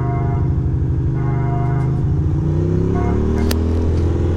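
Ducati Monster 620 air-cooled L-twin running, rising in pitch as it accelerates in the second half. Short, steady-pitched horn blasts sound over it three times, and there is one sharp click about three and a half seconds in.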